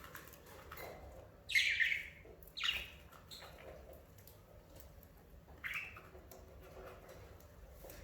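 Budgerigars calling: four louder calls, each under a second, come about one and a half, two and a half, three and a half and five and a half seconds in, the first the loudest, over faint steady chirping.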